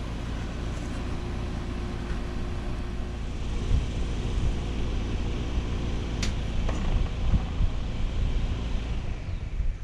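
Trane XL16i heat pump outdoor unit, with its Alliance scroll compressor and condenser fan, running with a steady hum and rush of air. A sharp click comes a little after six seconds in, and near the end the hum fades as the unit shuts down.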